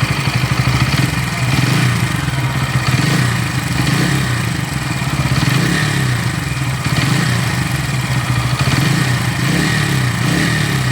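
Bajaj Pulsar N160's single-cylinder engine running steadily with a rapid, even pulse. The engine noise is what the owner of this brand-new bike considers a problem.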